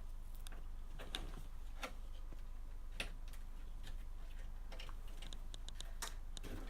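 Scattered light clicks and taps of cables and connectors being handled inside a PC case, over a steady low hum.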